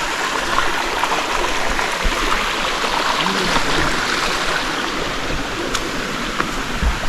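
Stream water rushing steadily over rocks, an even hiss with a couple of faint clicks near the end.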